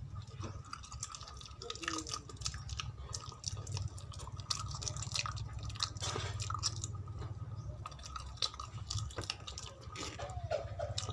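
Chewing with wet mouth clicks and smacks from someone eating by hand, many short clicks scattered irregularly, over a steady low hum.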